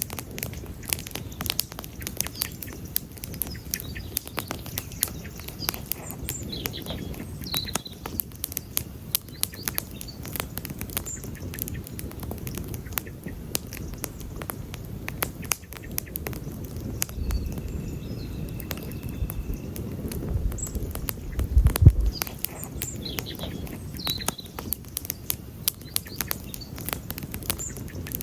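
Wood campfire crackling, with frequent irregular sharp pops over a low rumble of burning. A deeper rumble swells in the second half and is loudest about 22 seconds in.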